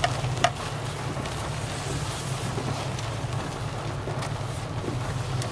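A truck driving, heard from inside the cab: a steady engine and road drone with a haze of tyre and wind noise. A single sharp click about half a second in.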